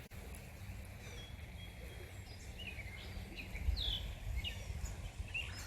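Small songbirds chirping with short, quick notes that pick up about halfway through, over a steady low rumble.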